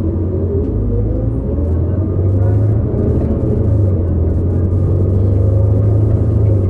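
Drivetrain of a New Flyer XD40 transit bus heard from on board while underway: a steady low drone from the Cummins L9 diesel with a fainter whine above it that shifts in pitch, growing slightly louder. The uploader puts the bus's odd sound down to the Allison transmission's bearings.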